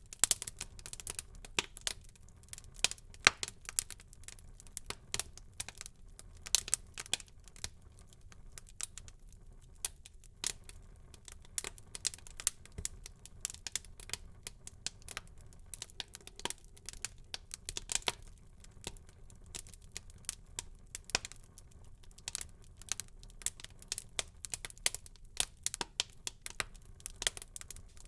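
Wood fire burning in a fireplace, crackling and popping: dense, irregular sharp snaps over a soft low rumble of the flames, with a few louder pops.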